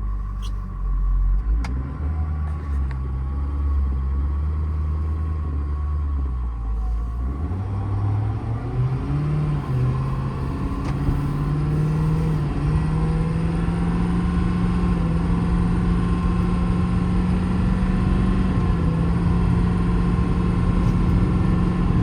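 Ford 6.7 Power Stroke V8 turbo-diesel in a 2021 F-550 running low and steady for several seconds, then pulling away. Its pitch rises in steps as the 10-speed automatic shifts up, heard from inside the cab.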